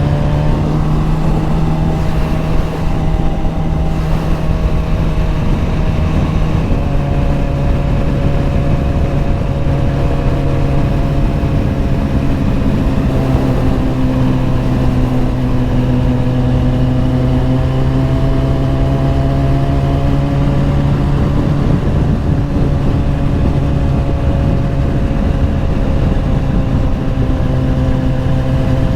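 Motorcycle engine running steadily at cruising speed, its pitch rising slightly about a second in and drifting gently up and down later, over steady low wind rumble on the microphone.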